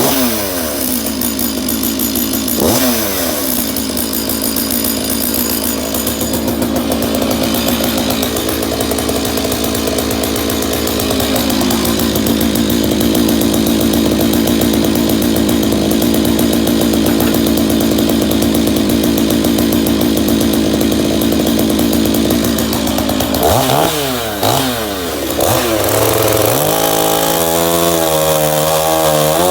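Stihl MS461 two-stroke chainsaw with a custom billet-aluminium muffler cap running. The throttle is blipped and falls back twice near the start, then the saw runs steady at high revs for about ten seconds. Near the end it is revved quickly up and down, with a warbling, uneven pitch.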